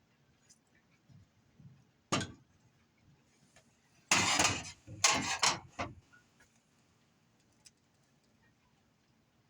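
Handling noise as things are moved about on a surface: a sharp knock about two seconds in, then two bursts of scraping noise around four and five seconds in, the second broken into several short strokes.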